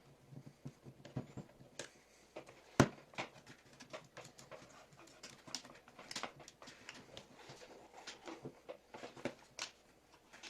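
Irregular clicks, taps and rustles of hands handling tools and small parts, with one sharp knock about three seconds in.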